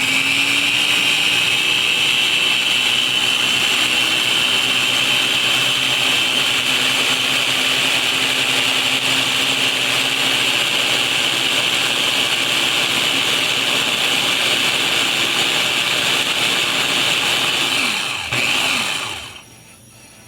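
Electric blender running steadily, blending avocado, aloe vera and royal jelly into a conditioner. The motor comes up to speed just as it starts, runs with a steady whine for about eighteen seconds, dips briefly, then cuts off near the end.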